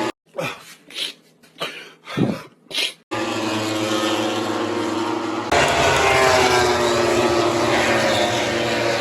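MotoGP racing motorcycles running at high revs. In the first three seconds there is a cut of short separate bursts. About five and a half seconds in it turns suddenly louder, with the pitch falling as bikes go past.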